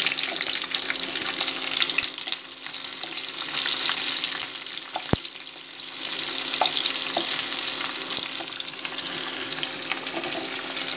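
Chopped onions sizzling in hot oil in a non-stick wok, stirred with a wooden spatula that scrapes and taps against the pan. A steady frying hiss, with a single sharp tap about five seconds in.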